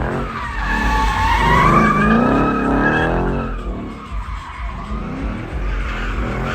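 Car tyres squealing with the engine running, the squeal wavering up and down in pitch. It is strongest for the first three seconds or so and then dies down.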